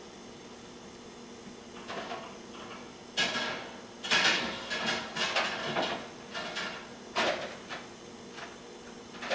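A run of irregular plastic clicks, knocks and short rustles, loudest from about three seconds in, with one last click near the end: hands handling a laptop during troubleshooting.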